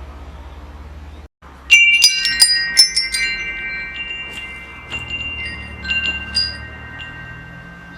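Metal wind chimes: a burst of several quick strikes about two seconds in rings out in long, slowly fading tones, with a few lighter strikes later. A low steady hum runs underneath, cutting out briefly just before the strikes.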